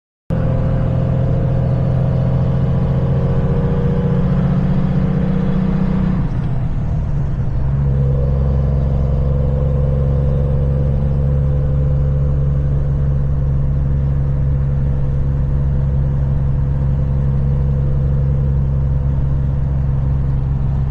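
Kenworth semi truck's diesel engine running under way, a steady low drone that cuts in suddenly at the start. About six to eight seconds in, its pitch dips and settles at a new steady level.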